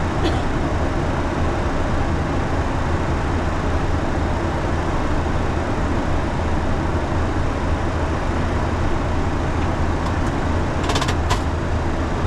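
Steady flight-deck noise of a Boeing 737: a constant airflow and engine rush over a low hum, with a few short clicks near the end.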